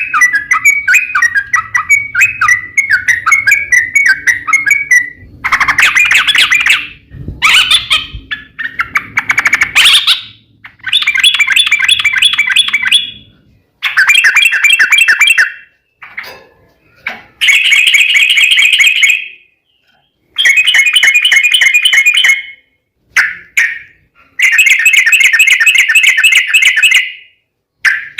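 Yellow-vented bulbul song: loud, rapid chattering phrases. At first they run almost without a break, then they come as a string of separate bursts of one to three seconds with short pauses between.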